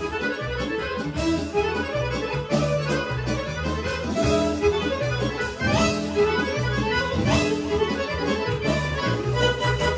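Serbian kolo dance music played by a folk band, accordion leading over a steady, even bass beat, with violin.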